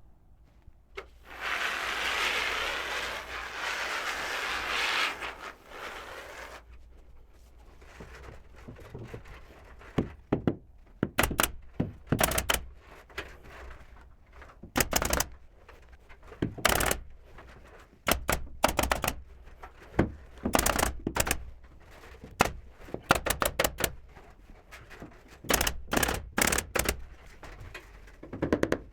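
Carpentry nail gun firing sharp shots in quick clusters, several a second, as wood boards are fastened. About five seconds of steady rushing noise comes first, near the start.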